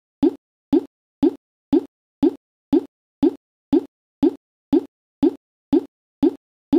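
A short electronic bloop repeated exactly twice a second, each one a quick upward-bending blip with a softer second bump, with dead silence between.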